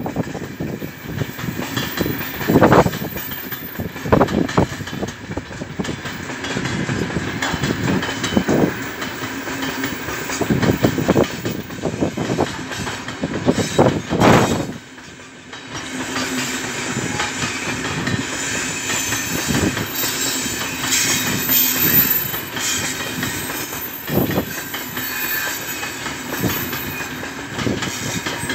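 Freight train of open gondola wagons rolling past, its wheels clacking irregularly over rail joints over a steady rumble of wagons.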